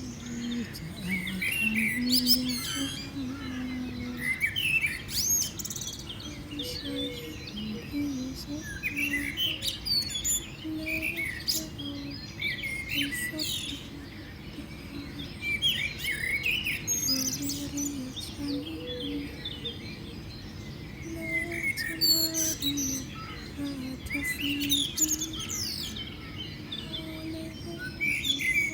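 Small birds chirping and singing in repeated bursts of quick high twitters and trills, with short lower notes sounding underneath.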